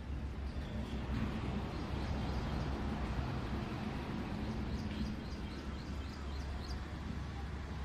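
A bird gives a quick run of short, high, rising chirps about five seconds in, over a steady low background rumble.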